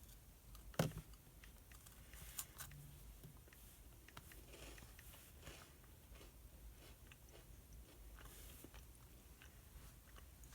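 Faint study-desk sounds: a sharp tap on the desk about a second in and a lighter one soon after, then soft paper rustling and small scattered ticks.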